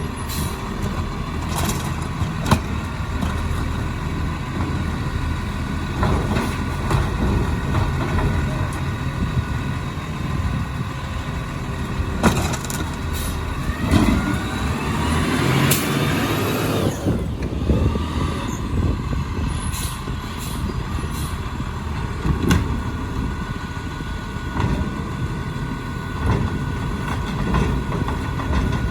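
Peterbilt 520 garbage truck with a Labrie Helping Hand automated side-loader arm working: the diesel engine runs steadily under scattered knocks and clanks. About halfway through, a rising whine builds and then stops suddenly.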